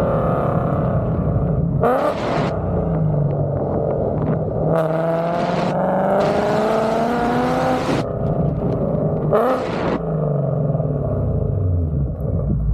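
Ford Coyote 5.0 V8 exhaust through Kooks headers, accelerating in several pulls with the pitch rising, each with a brief loud blast, then the revs falling as it slows near the end.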